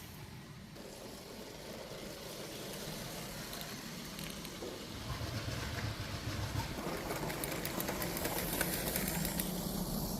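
A Lego toy train running along its plastic track, growing louder about halfway through as it comes closer, with rapid light clicking near the end.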